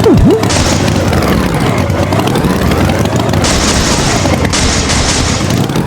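Cartoon tractor engine running loud, its pitch slowly falling and rising. It opens with a sharp swooping drop and has two bursts of hiss in the second half.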